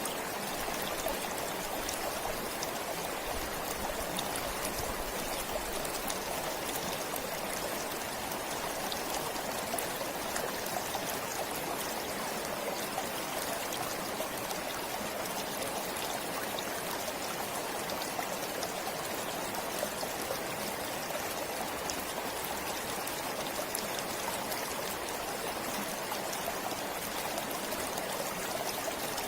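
Steady flowing stream: water running and splashing over stones, with a constant rushing and fine trickling and dripping.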